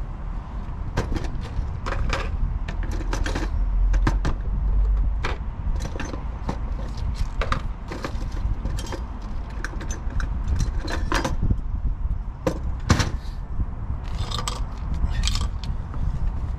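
A large screwdriver prising and knocking at a rust-seized exhaust tip and its clamp: irregular metallic clicks, knocks and scrapes, over a low rumble.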